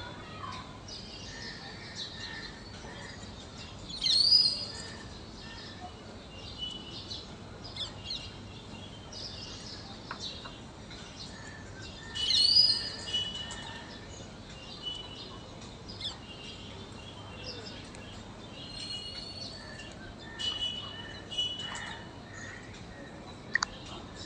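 Birds chirping and calling over a faint steady hiss, with two louder calls that slide upward and hold, about four seconds in and again about twelve seconds in.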